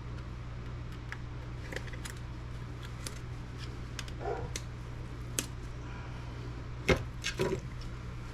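Scattered light clicks and taps of a laptop motherboard being handled, with a sharper knock about seven seconds in and a short cluster of clicks just after. A steady low hum runs underneath.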